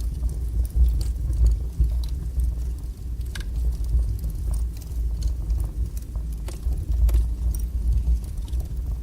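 Wood fire burning in a fireplace, with sharp crackles and pops scattered irregularly over a steady low rumble.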